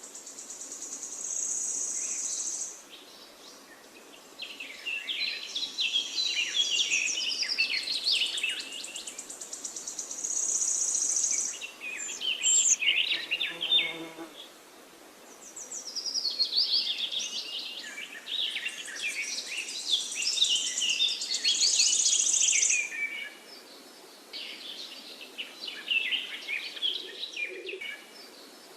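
Songbirds singing in a dense chorus of quick chirps and warbled phrases, broken up by high, buzzing trills about two seconds long.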